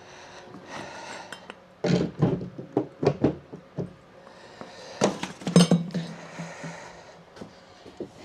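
Hard clanks and clinks of metal tools and engine parts being handled and set down: a run of sharp knocks about two seconds in and another about five seconds in, the loudest of them followed by a short ring.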